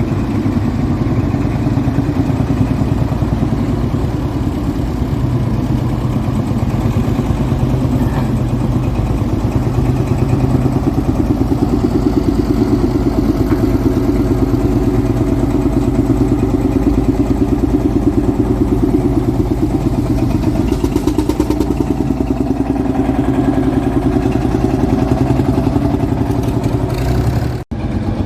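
Tractor engines running steadily with a fast, even pulsing throb as tractors drive off. The sound breaks off abruptly for a moment near the end.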